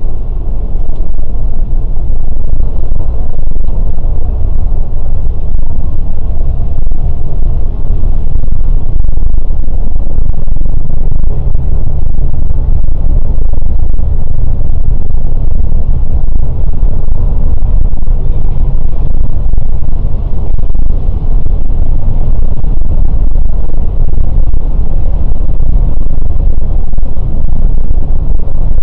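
Scania K410 coach on the move: a loud, steady low rumble of engine and road noise that runs on without change.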